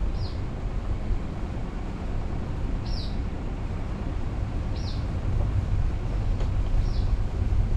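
Car driving, heard through a vehicle-mounted action camera: a steady low rumble of engine and road noise. A short, high, falling chirp repeats about every two seconds over it.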